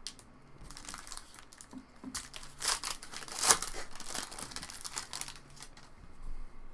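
Trading card pack wrappers crinkling and tearing as packs are opened by hand, an irregular run of crackles with a sharp loud crackle about three and a half seconds in.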